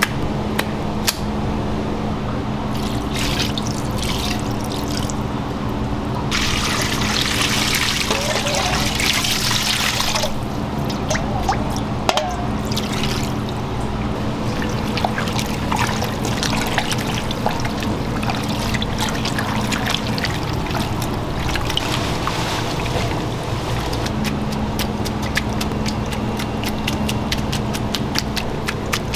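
Kitchen food-preparation sounds: liquid pouring and trickling, with a stretch of dense hiss lasting about four seconds and many small clicks and clatters over a steady low hum.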